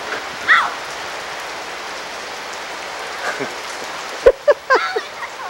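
Steady hiss of heavy rain falling on a wet paved street. A brief high shout comes about half a second in, and near the end a sharp click is followed by a few short shouts.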